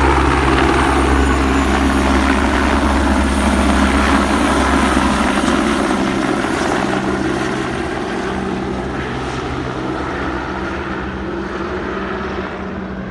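Police helicopter flying, its rotor and engine noise steady and then gradually fading over the last several seconds as it moves away.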